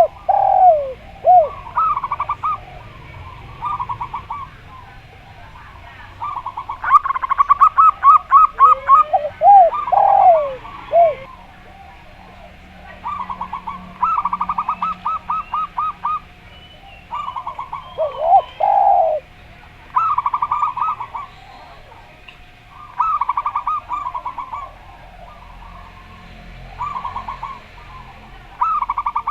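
A zebra dove gives rapid staccato cooing trills, phrase after phrase, alternating with a spotted dove's lower, swooping coos.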